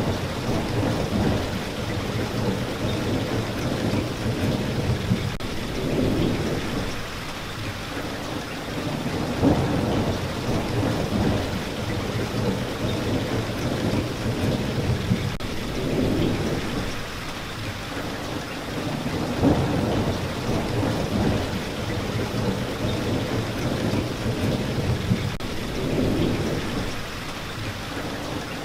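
Steady rain falling, with low thunder rumbles that swell and fade every few seconds.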